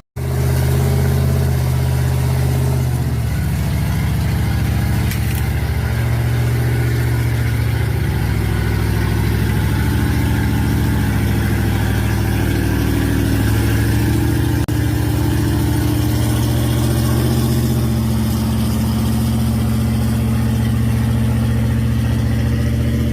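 Mega truck's Chevy 4.8 V8 engine running hard under load, its pitch rising and falling several times as it pulls a stuck pickup out of deep mud.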